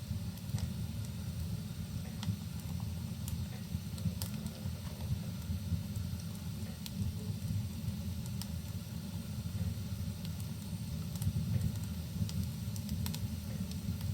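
Wood fire crackling in a fireplace, with scattered sharp pops and snaps over a steady low rumble.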